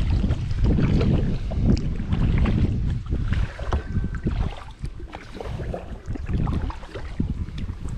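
Kayak paddle strokes, water splashing and dripping off the blades, with wind buffeting the microphone, heaviest in the first few seconds.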